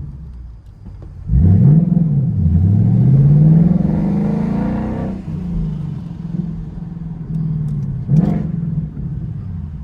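2021 Ford Mustang GT's 5.0 V8 engine and exhaust accelerating hard: about a second in the revs jump up, drop once at a gear change, then climb again before easing off to a steady cruise, with a brief rev rise near the end.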